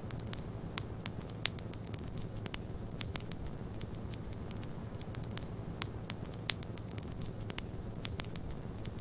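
Wood fire crackling with irregular sharp pops, a couple of them louder, over a steady low rumble of snowstorm wind.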